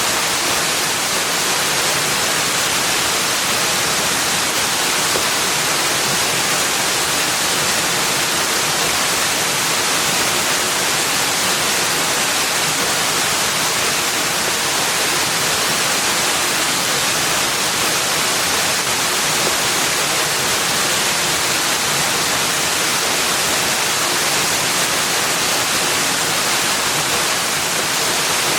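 Steady rushing water, an even hiss with no change in level and no separate splashes or calls.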